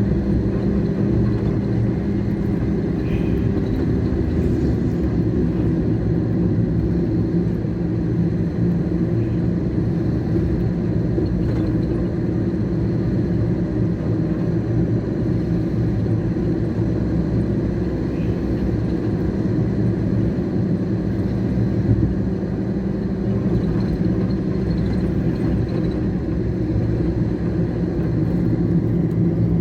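Steady low rumble of road traffic and wind, with a constant engine-like hum.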